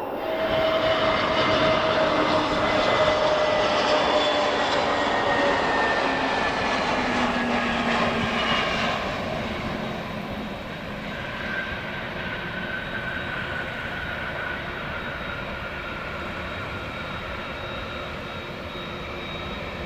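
Boeing 787-8 jet engines running at low power. The whine slides slowly downward as the aircraft passes and moves away. Louder for the first several seconds, then easing to a steady level.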